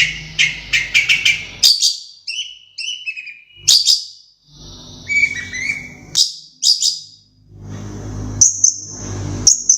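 Long-tailed shrike (cendet) singing a varied, mimicking song: a fast chattering run of notes for the first second and a half, then separate whistled notes that slide in pitch. From about halfway a thin, high, steady note runs on, broken by sharp short notes.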